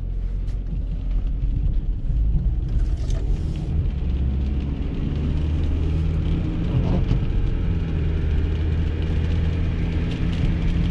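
Kia driving at about 25 mph: a steady low engine and road rumble. The noise from the freshly repaired rear wheel, which used to start at this speed, is no longer heard.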